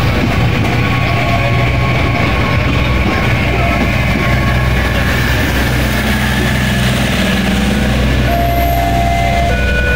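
KA Bandara YIA airport multiple-unit train running past close by: a steady, loud low rumble of its running gear and wheels on the rails.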